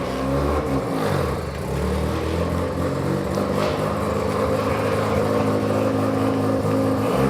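Mazda RX-7's big-turbo rotary engine idling, its pitch dipping briefly about a second in and then holding steady.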